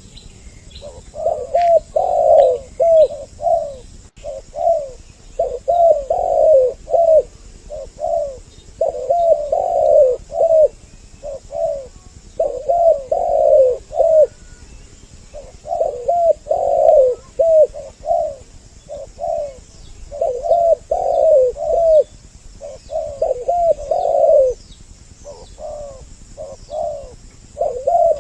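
Spotted doves (tekukur) cooing in repeated phrases. Each phrase is a quick run of several low coos, and a new phrase comes every two to three seconds, as in a two-bird lure recording.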